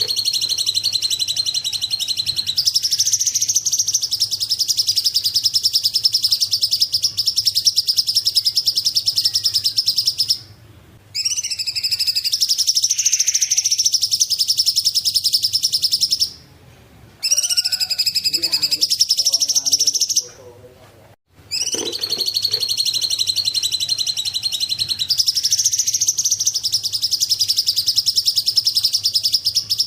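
A cungkok songbird singing four long phrases of very fast, high trilled notes, each phrase several seconds long and stepping up in pitch partway through, with short pauses between them.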